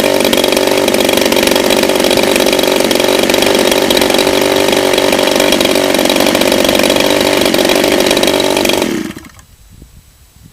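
DLE 30cc single-cylinder two-stroke model-aircraft engine running steadily on a test stand, then quitting suddenly about nine seconds in as the stand is tilted, which the owner attributes to the tilt flooding it.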